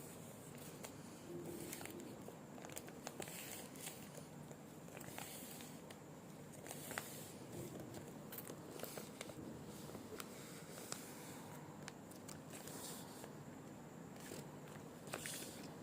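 Close-up ASMR handling sounds of unboxing tape rolls and their packaging: soft crinkles, light taps and short scratchy rustles, scattered and irregular.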